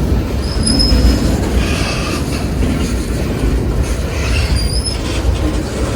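Long train of railroad cars rolling slowly past as it slows down: a steady low rumble of wheels on rail, with short, thin, high-pitched wheel squeals a few times.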